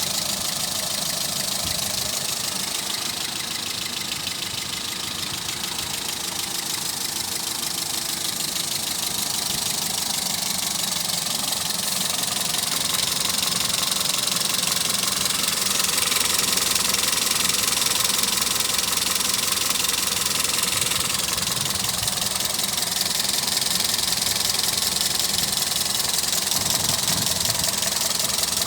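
Toyota Etios engine running steadily.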